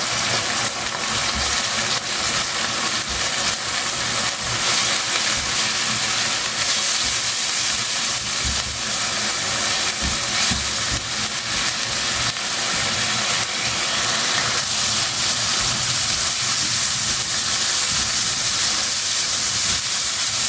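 Onion, ginger-garlic and ground-spice masala sizzling steadily as it fries in a non-stick wok, while a silicone spatula stirs and scrapes through it.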